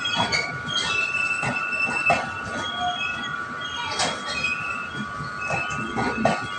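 Express train's passenger coaches rolling past as the train arrives, with a steady high-pitched squeal from the running gear throughout. Shorter, higher squeaks and irregular knocks and clanks of the wheels and couplings come through over it.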